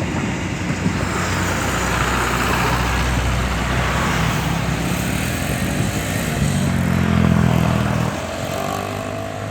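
Passenger train running through a station without stopping: a diesel locomotive's engine drone under the rumble of the wheels on the rails. The drone is strongest about two-thirds of the way in, then eases.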